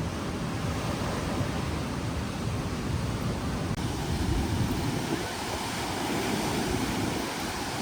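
Strong seaside wind rushing steadily, buffeting the microphone with uneven low rumbles.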